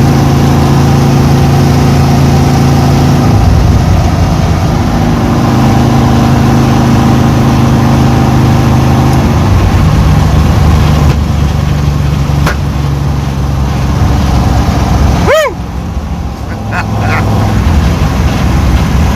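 Chevy Nova's 350 small-block V8 running loudly, its engine speed stepping up and down several times. A short rising squeal comes about fifteen seconds in.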